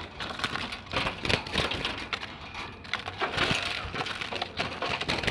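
Irregular rustling, scraping and clicking of a caught dove struggling and fluttering while it is held in the hand.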